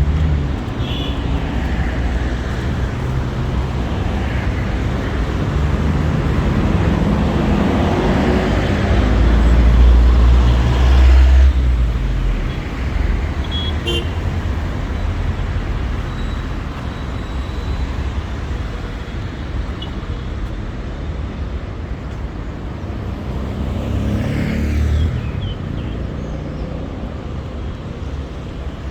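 Traffic on a wet city street: motor vehicles passing close by, the loudest about ten seconds in and another near the end, with a short horn beep about halfway through.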